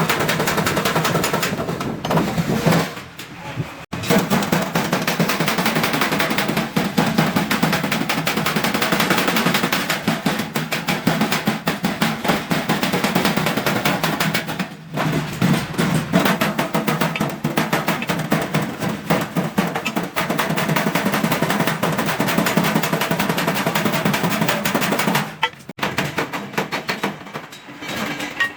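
Rapid, continuous hammering on stainless steel sheet, many blows a second, broken by a few short pauses.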